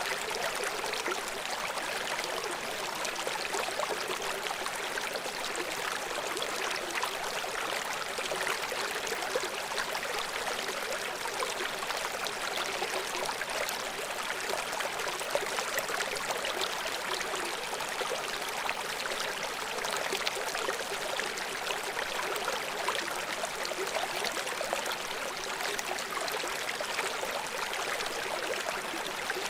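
River water rushing and splashing over rocks below a small waterfall: a steady, even rush with fine bubbling crackle, mostly in the middle and upper range with little low rumble.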